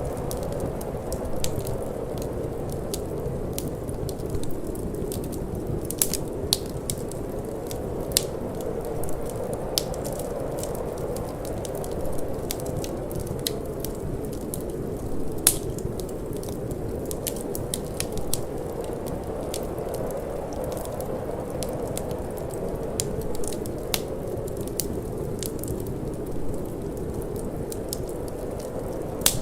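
Fireplace fire crackling, with scattered sharp pops at irregular intervals, over a steady low rush of wind.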